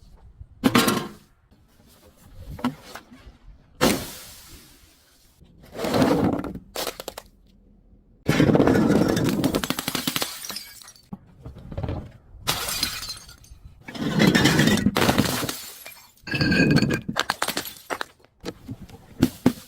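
Glass bottles being broken and crushed again and again: a run of sharp smashes and longer crunching stretches of grinding shards, with a brief glassy ringing near the end.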